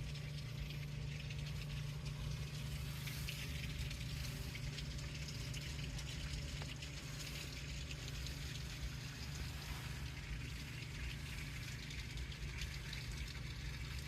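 Rain pattering steadily on a car's roof and windows, heard from inside the car as many fine ticks over a steady low hum.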